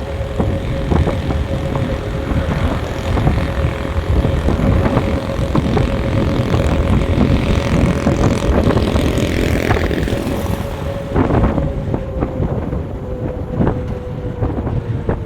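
A road vehicle driving along: a steady engine hum over a low road rumble, with scattered knocks and bumps. The hum's pitch sags slightly near the end.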